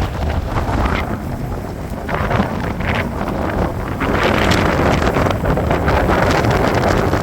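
Strong gusting wind buffeting the microphone, a loud rumbling roar that surges and grows stronger about four seconds in.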